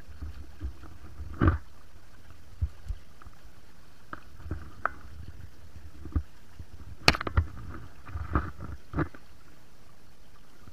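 Scattered knocks and splashes in water, about a dozen at uneven intervals with the loudest about seven seconds in, over a steady low rush.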